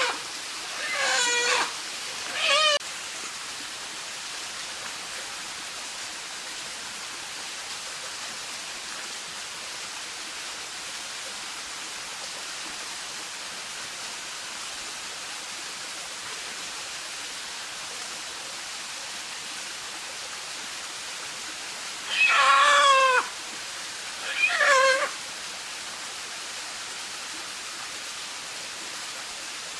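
Steady rush of a stream, with an animal giving two short, wavering, pitched calls near the start and two more about 22 seconds in.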